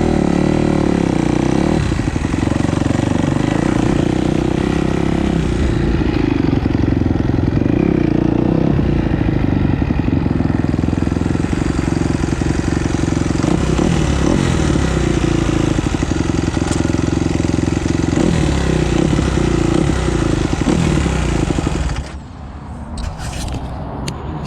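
Motocross bike engine running hard at varying revs. The engine sound drops away sharply near the end.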